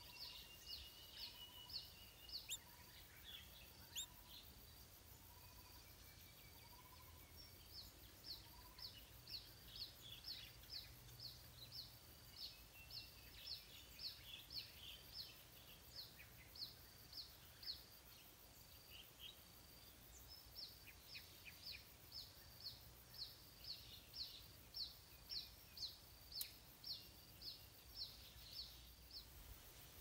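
Faint, rapid series of short high chips from a small bird, about three a second, pausing for a few seconds midway and then resuming. In the first several seconds a fainter, lower note repeats about twice a second beneath it.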